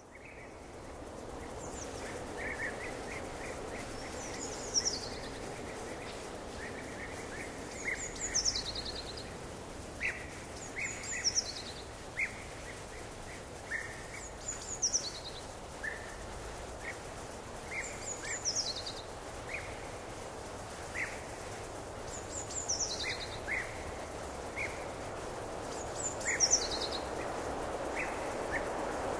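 Birds singing over a steady background noise: one bird repeats a short, high, falling trill every three to four seconds, with other short chirps in between.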